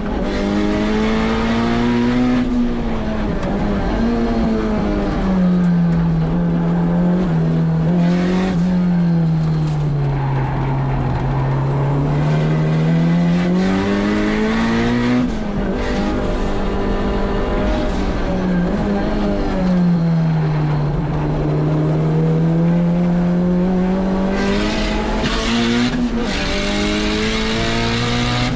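Turbocharged K24 four-cylinder engine of a Honda S2000 being driven hard on a race track. Its note climbs and falls several times as it accelerates and slows for corners, with a sudden drop in pitch about halfway through.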